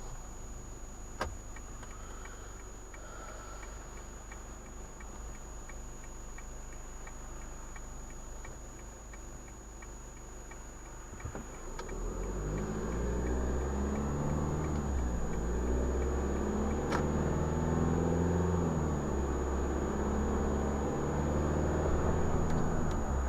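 Car engine heard from inside the car: a quiet stretch with regular ticking, about two to three ticks a second. About halfway through, the engine grows louder as the car pulls away, its pitch rising and falling through the gears.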